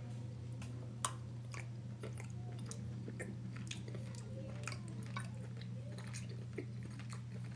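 A person chewing a mouthful of baked chicken and vegetables, with faint short mouth clicks scattered through and a sharper one about a second in. A steady low hum runs underneath.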